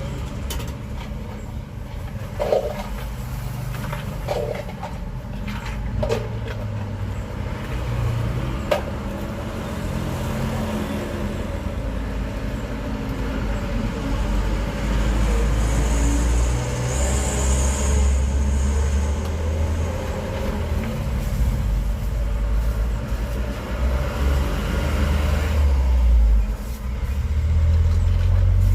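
Road traffic going past, engines rumbling low and swelling as heavier vehicles pass about halfway through and again near the end. There is a brief hiss partway through and a few short knocks in the first few seconds.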